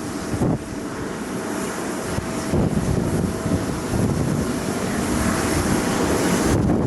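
Jet airliner engines running as a plane passes, a steady rush with a faint steady tone, growing slightly louder, mixed with wind buffeting the microphone. The high hiss drops away abruptly near the end.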